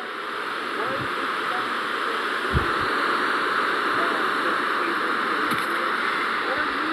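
Steady, loud static-like rushing noise that starts abruptly out of silence, with a single dull thump about two and a half seconds in.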